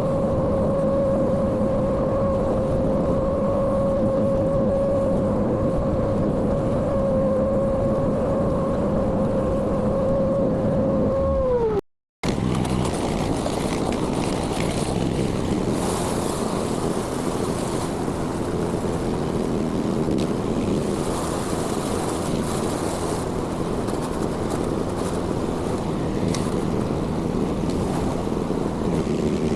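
Compact construction machine's engine running at a steady speed with a steady humming tone; the tone sags in pitch about twelve seconds in and cuts off abruptly. After that a machine runs on as a rougher, even noise with no clear tone.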